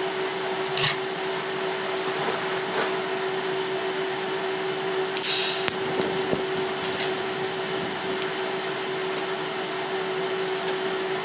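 Electric grinder motor running steadily on steel exhaust pipe, a constant whine over hiss, with a few sharp clicks and knocks.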